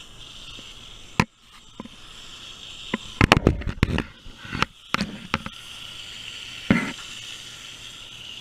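Garden hose spraying water at an air conditioner's condenser pad: a steady hiss that cuts out briefly a couple of times, with a cluster of knocks and clatters about halfway through and a few single knocks after.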